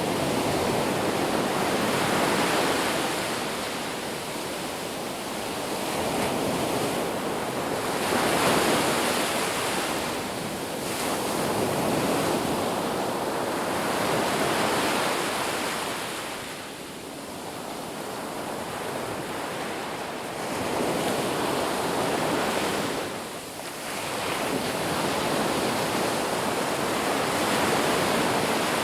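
Ocean surf washing on a beach: waves break and recede in slow swells every few seconds, with a dip about two-thirds of the way through.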